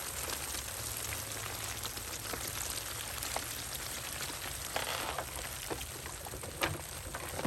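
Steady pattering water noise full of small ticks and splashes, with a short louder rush of splashing about five seconds in.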